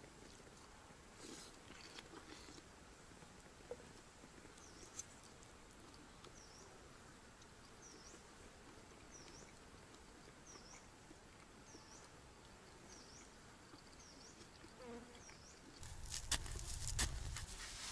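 A small bird repeats a short high call that dips and rises in pitch, about once every three quarters of a second. Near the end, a pick strikes into earth in a few heavy thuds.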